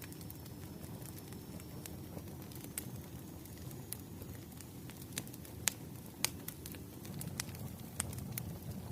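Firewood logs burning: a steady low rumble of flame with scattered sharp crackles and pops, the loudest few coming in the middle.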